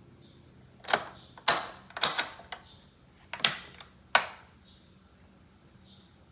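A run of about seven sharp mechanical clicks and clunks, irregularly spaced over about three seconds, as the Boxer 12-inch box fan's controls or housing are worked by hand.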